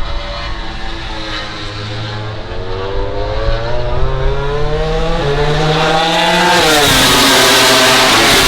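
MotoGP racing motorcycle engine at high revs, accelerating with its pitch climbing and one upshift about five seconds in. Its pitch then drops sharply as it goes by, and a louder engine noise builds near the end as another bike comes on.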